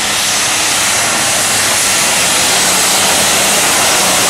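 Competition pulling tractor running at full power down the track. A loud, steady engine sound that grows slightly louder.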